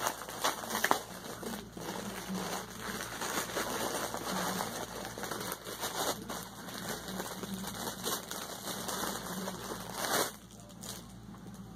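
Packaging rustling and crinkling with scattered small clicks as a package is opened and its contents are handled, stopping about ten seconds in.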